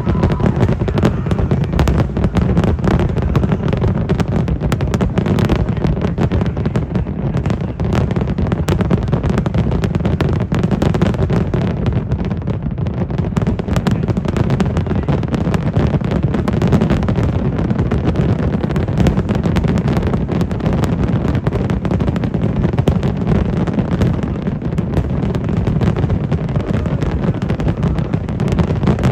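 Fireworks going off in a dense, unbroken run of bangs and crackles over a steady low rumble.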